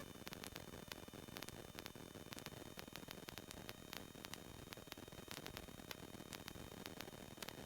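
Faint steady hiss with scattered crackling clicks, the static of the Cessna 172's intercom and radio audio feed between transmissions.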